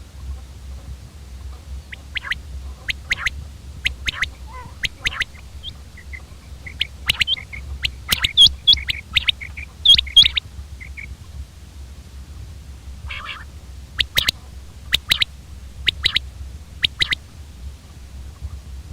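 Common quail calling: short, sharp notes in quick clusters, then four single calls about a second apart near the end. A steady low hum runs underneath.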